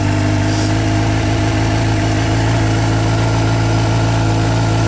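A 2016 Suzuki GSX-R750's inline-four engine idles steadily through an aftermarket Yoshimura exhaust. It is running on a battery just brought back from dead by a battery maintainer.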